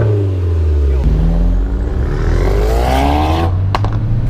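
Ford Focus ST's turbocharged four-cylinder engine heard from inside the cabin under hard acceleration. The engine note drops, then climbs steadily for a couple of seconds before breaking off about three and a half seconds in, as with a gear change.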